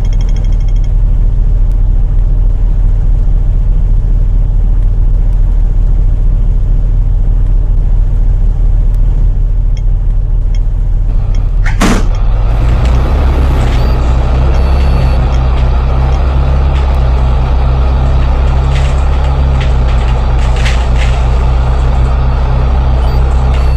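A bus's diesel engine running with a steady low rumble heard from inside the bus. About halfway through there is a short sharp air-brake hiss, and then the engine note rises and grows louder as the bus pulls away.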